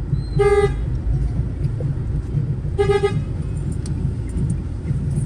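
A vehicle horn gives two short toots, a little over two seconds apart, over a steady low rumble of engine and road noise.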